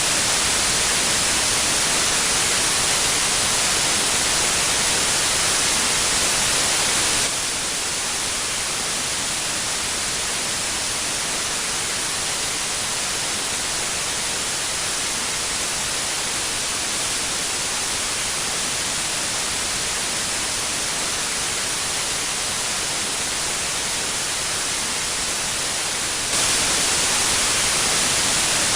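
Steady synthetic white noise, an even hiss. About seven seconds in it steps down a little, slightly quieter and duller, and a few seconds before the end it steps back up.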